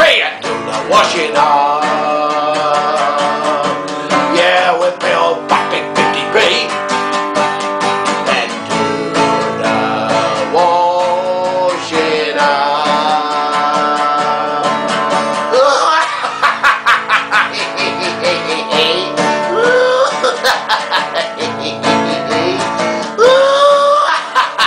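Acoustic guitar strumming a lively song, with a voice singing over parts of it.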